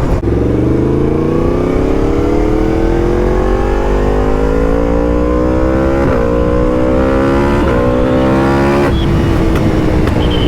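Yamaha MT-10's crossplane inline-four through a full titanium Akrapovic race exhaust, pulling hard with the engine note rising steadily for about six seconds. There are brief breaks in the note twice, and near the end it settles to a steadier, lower pitch. Wind rush runs underneath.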